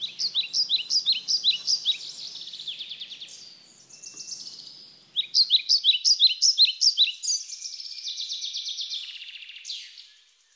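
A songbird singing two phrases. Each begins with quick, sharp repeated notes, about four a second, and ends in a faster trill. The second phrase starts about five seconds in and ends with a falling note.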